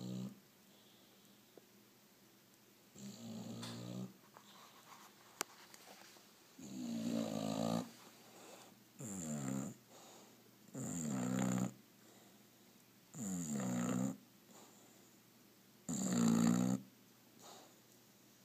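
English bulldog snoring in deep sleep: about six snores, each lasting about a second, coming roughly every two seconds in a regular rhythm.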